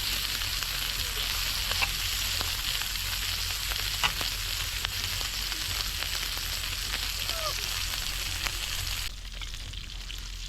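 Food frying in a hot pan, a steady sizzle with scattered pops of spitting fat. The sizzle drops abruptly and gets quieter near the end.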